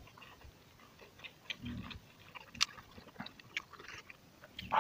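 Person chewing a mouthful of pork close to the microphone, with scattered small clicks and smacks of the mouth.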